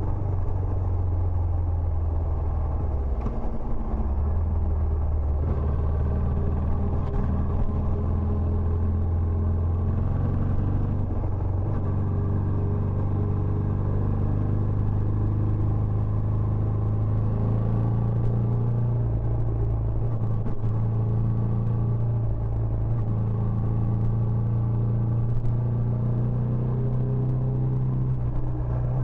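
Benelli Imperiale 400 single-cylinder engine running through its stock exhaust, a steady low note whose pitch creeps up slightly toward the end.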